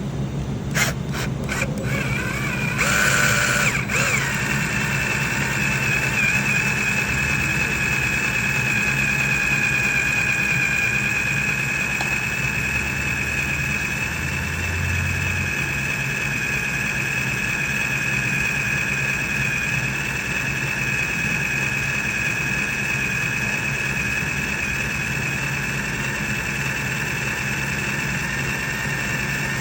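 Drill running steadily as its bit cuts slowly into a broken, rusted exhaust manifold stud, lubricated, with a steady high-pitched whine. A few clicks in the first few seconds before the whine settles.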